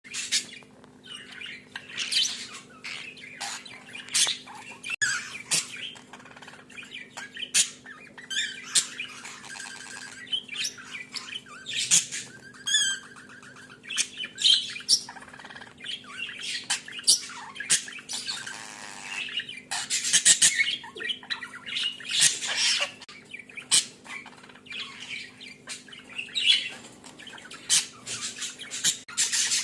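Budgerigars chattering in dense, irregular squawks and chirps, with a quick warbling trill partway through. This is the chatter budgies make when courting and mating.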